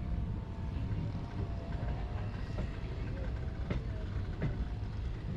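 Train running: a steady low rumble with a few faint wavering tones and several sharp knocks in the second half.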